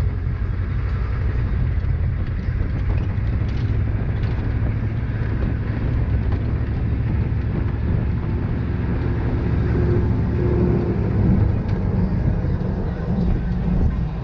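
Steady low rumble of a motor vehicle driving along, without distinct shots, knocks or other events.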